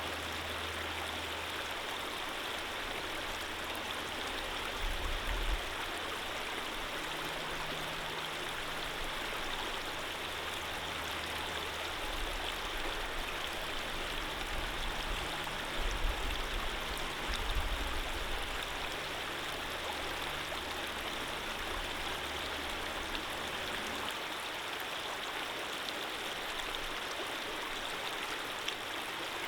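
Steady rushing flow of a stream of running water. Under it is a low rumble that swells a few times and dies away about two-thirds of the way through.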